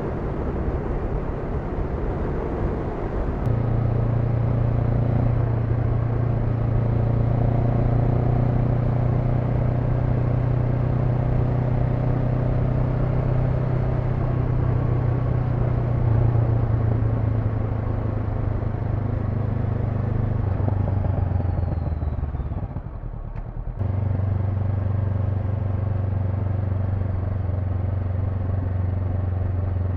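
Honda NX500's parallel-twin engine running steadily under way, with road and wind noise. About three and a half seconds in the engine note grows louder. Near the end it drops away for about a second, then comes back steady at a slightly lower pitch.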